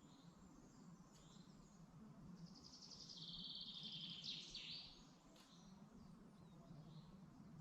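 Faint forest birdsong: a songbird sings one fast, trilled phrase about two and a half seconds long, a couple of seconds in, with a few short high calls before and after.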